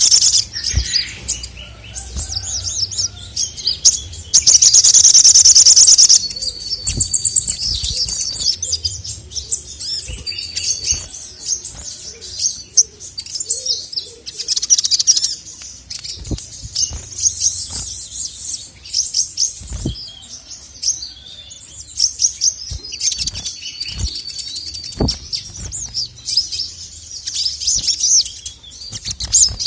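Male little spiderhunter (sogon) singing: rapid high chirps and trills, with one loud fast trill about four seconds in lasting some two seconds. Scattered short knocks sound between the phrases.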